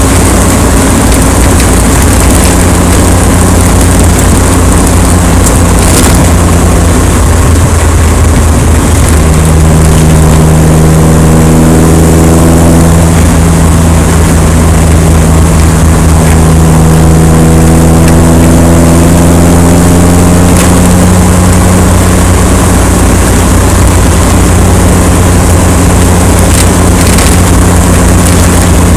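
Loud, continuous wind noise on the microphone, a heavy low rumble, over a steady hum. Pitched tones rise and fall in the middle.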